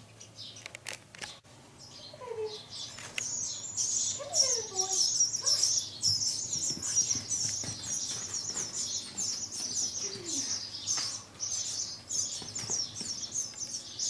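Small birds chirping rapidly and without pause, high-pitched, starting about three seconds in.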